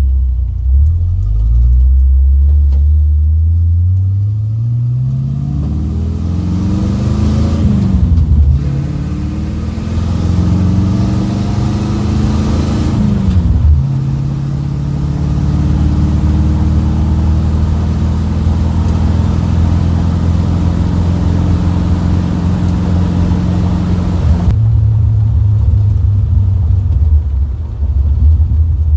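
Small-block Chevy 350 V8 running through a new full exhaust. It climbs in rpm over several seconds, falls back, and climbs again twice. It then holds a steady higher speed for about ten seconds before dropping back to a lumpy idle near the end.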